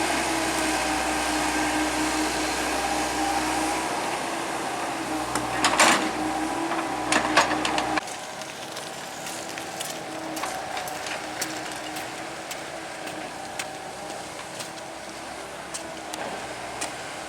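Excavator engine running steadily, with a few sharp metallic clanks about six and seven seconds in. About eight seconds in the sound drops suddenly and carries on quieter, with scattered light clicks.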